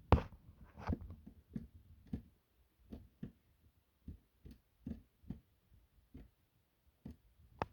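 A series of light knocks and clicks, irregularly spaced and often coming in pairs, with the first the loudest.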